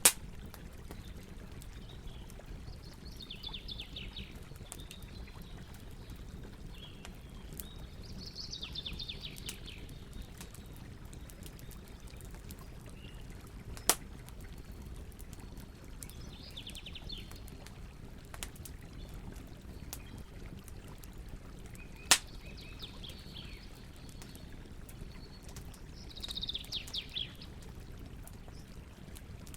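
Campfire burning with a steady low rumble and fine crackling, broken by three sharp loud pops. Short, rapid bird trills chirp every few seconds.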